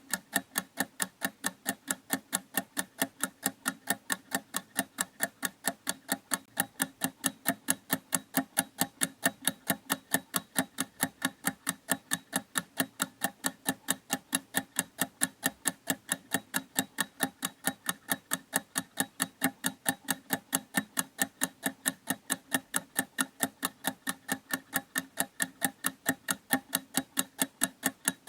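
A clock ticking, with a fast, even tick of several sharp clicks a second that never breaks.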